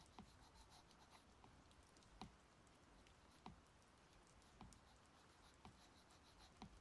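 Faint stylus tapping and stroking on an iPad's glass screen while drawing: a few short, sharp taps at uneven intervals over a quiet, steady hiss.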